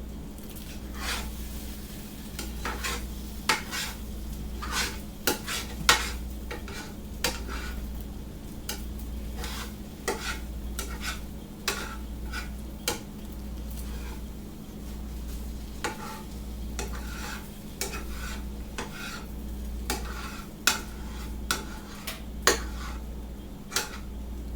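Stirring in a bowl, the utensil clicking against its sides at irregular intervals, over a low hum that pulses about once a second.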